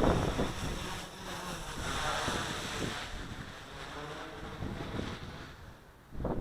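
Wind buffeting the microphone in gusts, a low rumble that is strongest at first, eases off toward the end, and flares briefly once more right at the close.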